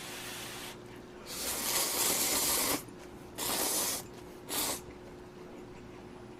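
Instant ramyeon noodles and broth being slurped close to the microphone: one long loud slurp followed by two shorter ones.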